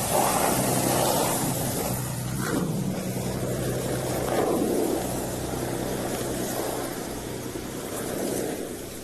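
A vehicle's engine running steadily: a low hum under a rushing noise that swells and eases a few times.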